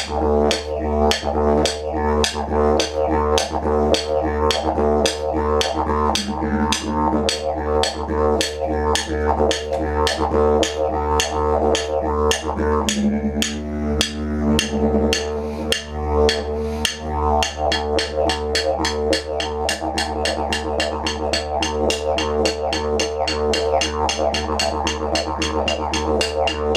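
Background music: a didgeridoo drone with regular percussive taps, which quicken about two-thirds of the way through.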